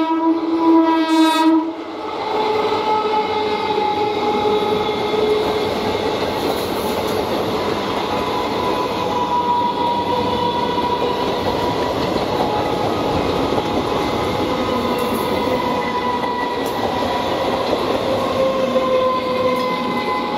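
A train horn sounds for about the first two seconds and stops abruptly. After that an electric EMU local train runs past close by, a steady loud rushing noise of wheels on rails.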